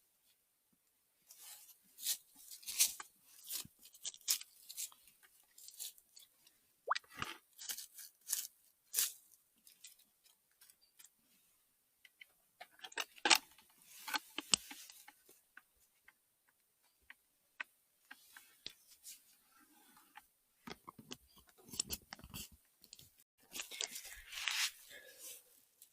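Irregular crunching, crackling and rustling close to the microphone, from dry forest-floor litter and twigs being stepped on and handled, with quiet gaps between bursts and a busier stretch near the end.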